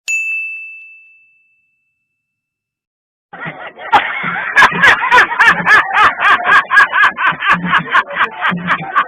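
A single bright bell "ding" sound effect that rings out and fades over about a second and a half. After a short silence, a louder rhythmic clip with a fast, even beat comes in about three seconds in.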